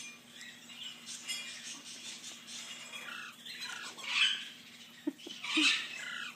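Blue-fronted Amazon parrot nestling giving short, high squeaky begging calls while being hand-fed, its feeding response. The calls are loudest about four seconds in and again near the end.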